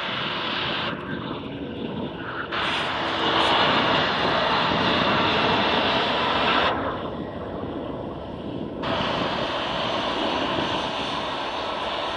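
Boeing 757 jet engines giving a steady rushing noise, louder from about three seconds in and easing back near seven seconds in.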